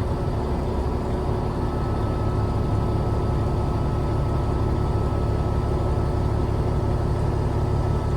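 Peterbilt 379 dump truck's diesel engine running steadily with the PTO engaged, driving the hydraulic hoist as the dump bed raises to tip the load, with a steady thin whine above the engine note.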